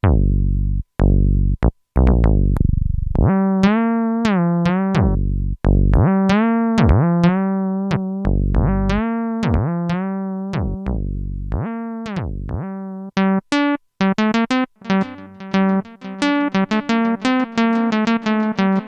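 Waldorf Quantum synthesizer playing a bright, many-harmonic patch. It starts with deep bass hits, moves into repeated notes that bend down in pitch and back up, and about two-thirds of the way through breaks into a fast run of short staccato notes.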